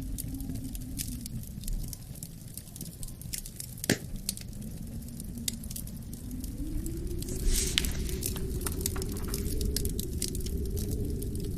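Wood fire crackling in a fireplace, with scattered sharp snaps and one louder pop about four seconds in, over a low wind that swells partway through and eases off near the end.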